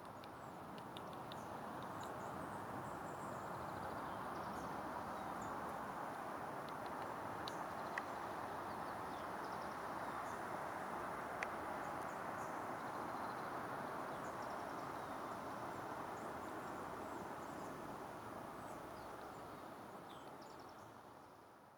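Steady rushing outdoor background noise that fades in at the start and out near the end, with faint high bird chirps scattered through it and two sharp taps a few seconds apart in the middle.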